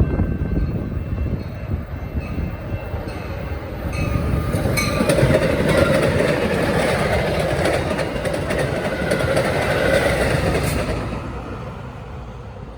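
A train passing at close range, its wheels rumbling and clattering on the rails; the sound swells about four seconds in and fades away over the last two seconds.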